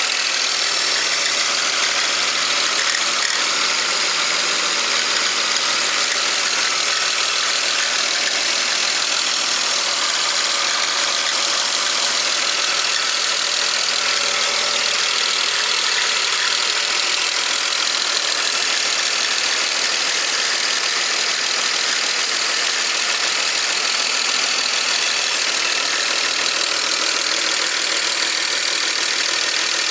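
2001 BMW X5 engine running steadily with a ticking noise. The owner is unsure of the cause and wonders whether it is valves, lifters, a bearing or rod knock.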